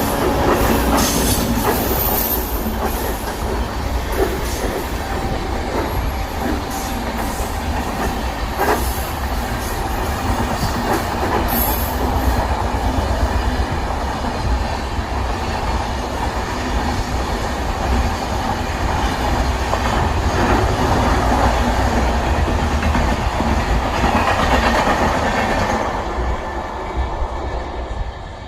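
Train running along the track: a steady low rumble with the clickety-clack of wheels over rail joints, easing off slightly near the end.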